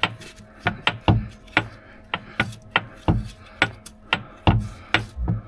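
Hand grease gun being pumped, forcing lithium grease into a zerk fitting on a U-joint: a sharp click with a low thud on each stroke, about two strokes a second.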